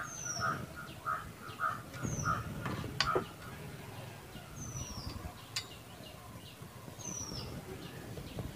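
Bird calls: a short, high whistle falling in pitch, repeated about every two and a half seconds, with a quick run of rapid calls in the first second. Two sharp clicks stand out, about three and five and a half seconds in.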